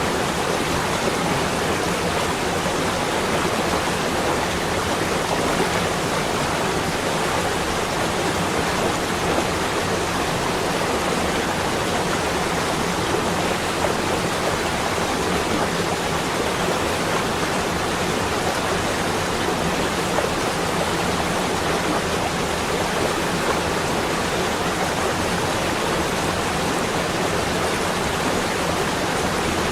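A steady, even rushing noise with no separate events and no change in level.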